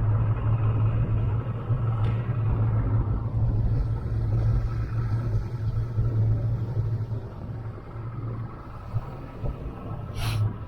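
Mercury outboard engine on a Checkmate speedboat running steadily with a low drone, easing off about eight seconds in. A brief sharp noise comes near the end.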